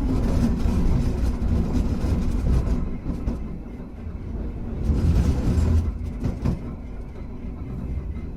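Hankai Tramway car 351 running along street track, heard from inside: a steady low rumble of motors and wheels that swells twice, with a few short knocks from the track.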